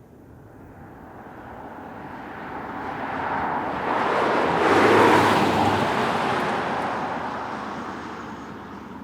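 A car driving past: tyre and wind noise grows steadily louder, peaks about five seconds in with a faint low hum, then fades away.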